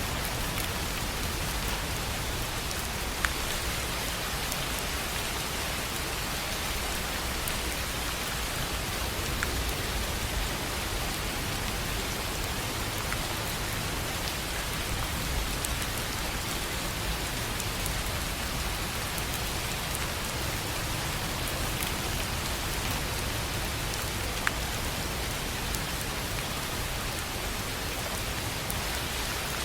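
Steady rain on a tin roof: an even hiss of drops with a few single louder drop impacts standing out now and then.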